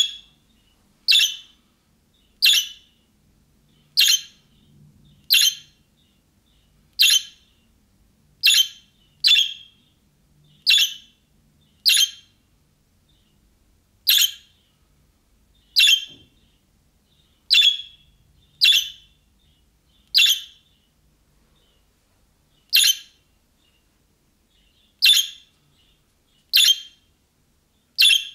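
A budgerigar calling over and over: short, sharp contact calls about one every second or so, around twenty in all, with a couple of longer pauses.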